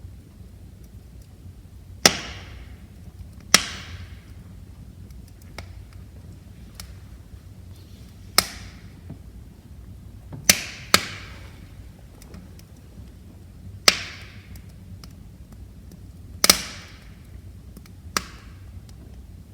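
Wood fire crackling in a fireplace: about eight sharp pops and snaps from the burning logs, a few seconds apart and two in quick succession near the middle, over the steady low rumble of the flames.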